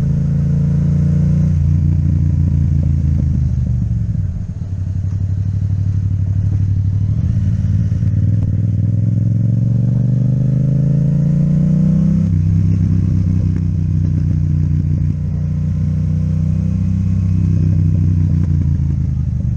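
Yamaha MT-07's parallel-twin engine through an Akrapovic exhaust, on the move. The engine note eases off about four seconds in, then climbs steadily in pitch for several seconds as the bike accelerates. It drops sharply at a gear change about twelve seconds in and runs on fairly steadily.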